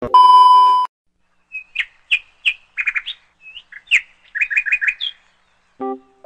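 A steady test-tone beep, just under a second long, then a small bird chirping in short separate notes, ending in a quick run of four chirps. A piano note sounds just before the end.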